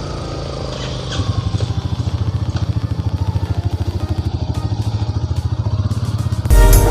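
Motorcycle engine running as the bike sets off, its exhaust beat turning into a fast, even throb about a second in. Electronic music comes in near the end.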